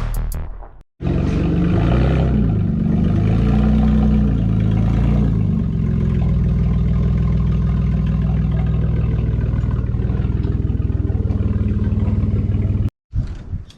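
Engine revving up and down a few times, then running steadily at a constant speed. It starts and stops abruptly.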